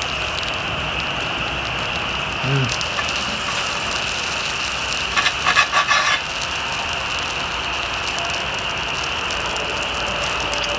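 Steady sizzling hiss from a wood-fire steak cookout, with a quick run of clicks and crackles about five seconds in.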